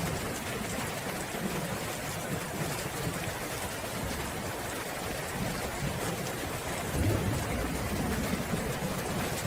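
Steady heavy rain falling, with a low rumble of thunder swelling about seven seconds in.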